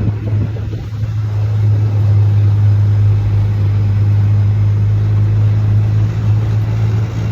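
Motor vehicle running at a steady speed with a constant low drone and road or wind noise, heard from on board.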